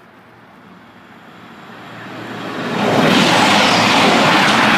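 Grand Central diesel passenger train passing at speed over the level crossing: a rushing noise that builds over the first couple of seconds and stays loud for the last two, as the coaches go by.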